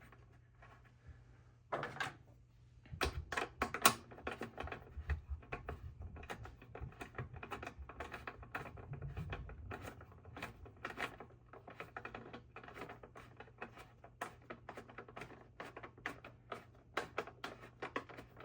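Irregular metallic clicks and small clatters of hand tools working a nut onto a bolt on the mower's metal housing. The bolt hole is stripped, so the nut keeps spinning rather than tightening.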